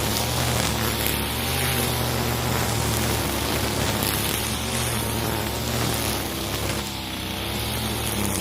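Husqvarna 541 two-stroke brush cutter running steadily at high throttle while clearing growth; its engine note wavers briefly near the end as the load changes.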